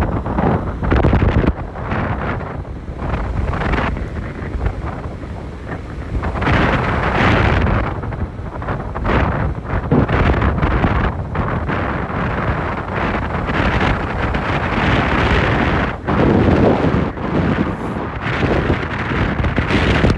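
Wind buffeting the microphone: a loud, uneven rumble and rush that swells and eases every few seconds.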